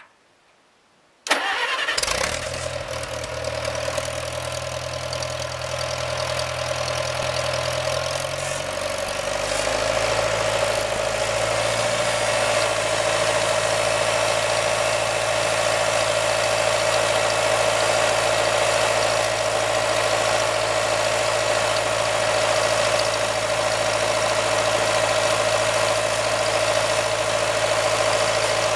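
International 340 utility tractor engine starting abruptly about a second in, then running steadily, with a steady whine over it. About eight seconds in its pitch drops a step as it settles into an idle.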